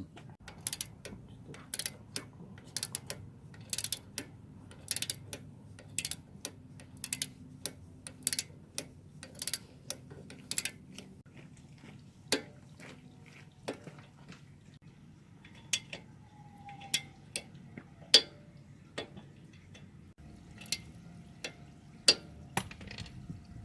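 Hand ratchet wrench clicking in short bursts of a few clicks, about once a second, then slower, scattered metal clicks and taps in the second half.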